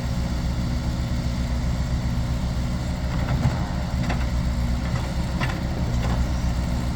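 A motor vehicle's engine running steadily with an even low hum, with a few faint knocks in the second half.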